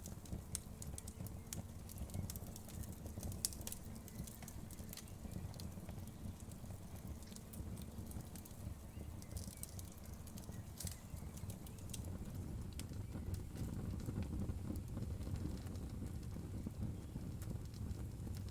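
Wood fire crackling, with scattered sharp pops and snaps over a steady low rumble of the flames.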